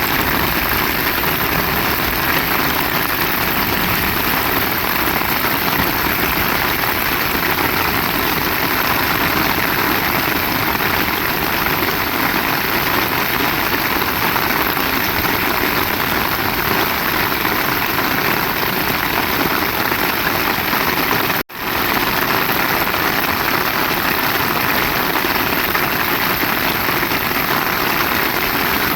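Heavy rain falling steadily, a dense, even hiss. It cuts out for an instant about two-thirds of the way through, then resumes.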